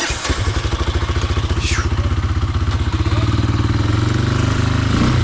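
ATV engine catching abruptly, then idling steadily with a fast, even chug.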